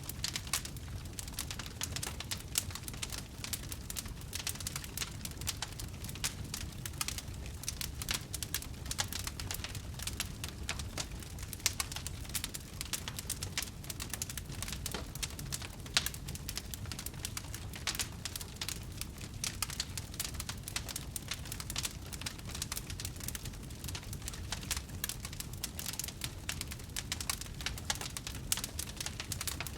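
Wood fire crackling: many small, sharp pops and snaps over a steady low rumble.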